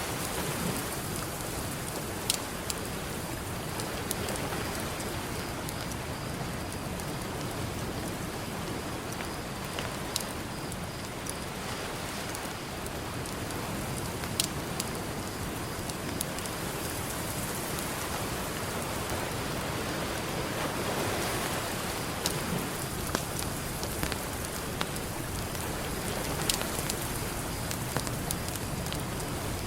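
Campfire crackling, with a sharp pop every few seconds, over a steady wash of ocean surf.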